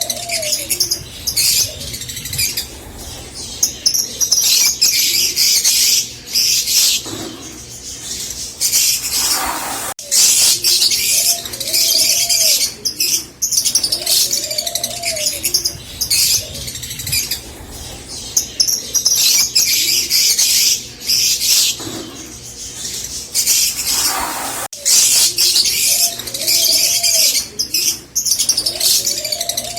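A flock of rosy-faced lovebirds chattering with dense, shrill, high-pitched chirps. Underneath runs a lower arched note that repeats every couple of seconds.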